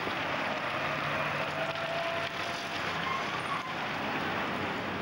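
A motor vehicle's engine running over steady street noise.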